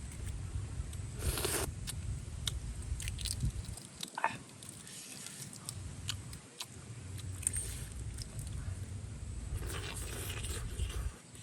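Crunching and scraping with scattered sharp clicks over a steady low rumble, with two brief louder rustling bursts, one near the start and one near the end.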